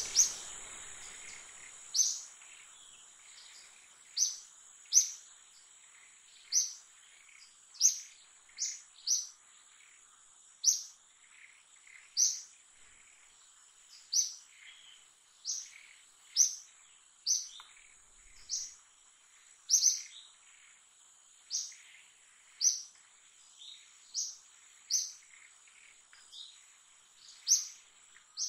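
A bird calling: short, sharp, high chirps repeated about once every second or so, against a faint steady high-pitched hum.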